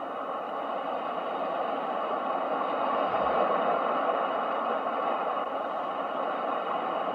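Ocean surf: a steady wash of breaking waves that swells to a peak about three seconds in, then eases off a little.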